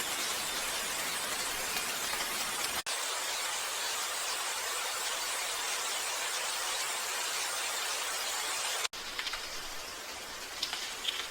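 Steady rain hiss, breaking off for an instant twice, about three seconds in and near the end. After the second break it is a little quieter, with a few separate drop ticks.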